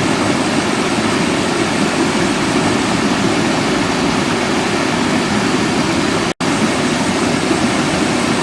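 Steady, loud rush of running water from a stream or waterfall. The sound drops out completely for an instant about six seconds in, then resumes unchanged.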